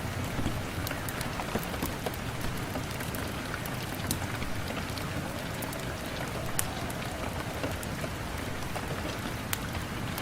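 Rain falling on a window: a steady hiss with scattered sharp ticks.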